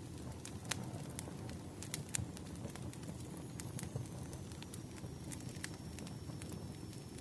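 Firewood burning, crackling with irregular sharp pops of varying strength over a low steady rumble of the flames.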